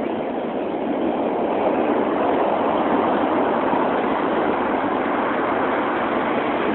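Heavy storm surf breaking and washing ashore, a steady rushing noise that grows louder about a second or two in.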